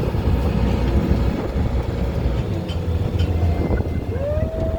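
Parasail boat's engine running steadily, a low rumble mixed with wind buffeting the microphone.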